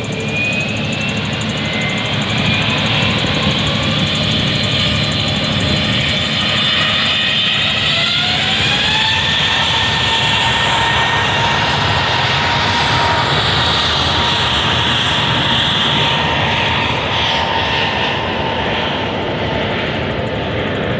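Aircraft engines running loud and steady under a rushing noise, their whine rising in pitch near the start and again about eight seconds in, then holding level: the engines spooling up to higher thrust.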